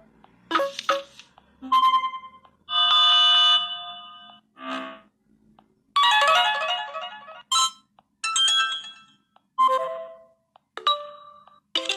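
A run of LineageOS notification tones played from a Samsung Galaxy S6 phone: about nine short chimes and jingles one after another, each a different brief melody, with short pauses between them.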